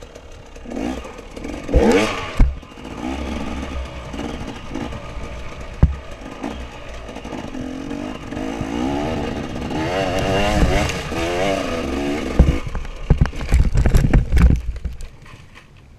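Motorcycle engine revving up and down as it pulls through the gears. Sharp knocks come about two seconds in, and a run of knocks and thumps near the end.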